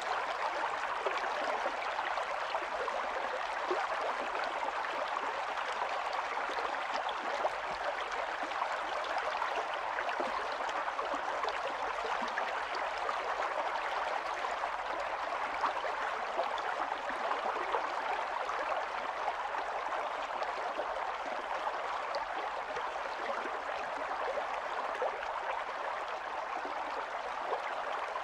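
Small stream running steadily over stones, an even rushing and babbling of water with no breaks.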